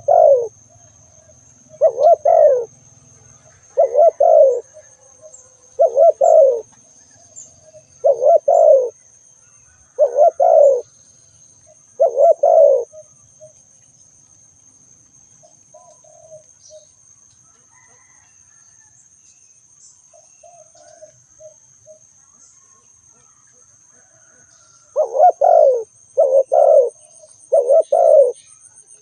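Spotted dove cooing: a string of low, loud coos about two seconds apart, then a pause, then four coos in quicker succession near the end. A faint, steady high whine sits underneath.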